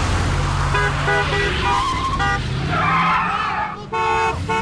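Car chase traffic: car engines running, with several short car-horn toots, a tyre squeal about three seconds in, and a longer horn blast near the end.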